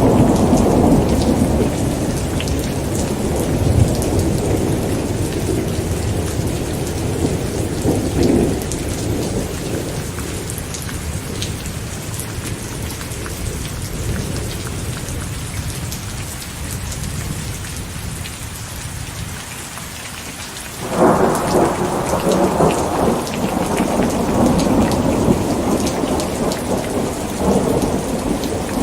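Steady rain falling during a thunderstorm, with thunder rumbling. One rumble fades slowly over the first twenty seconds. A new, louder peal breaks in suddenly about twenty-one seconds in and rumbles on.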